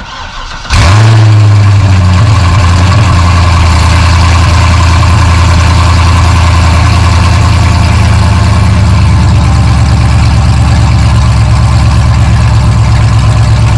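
Cold start of a C6 Corvette Grand Sport's 6.2 L LS3 V8 with the exhaust dumped open after the mid-pipe and no mufflers. The starter cranks briefly, the engine catches about a second in with a flare, and it settles into a loud, steady, pulsing idle.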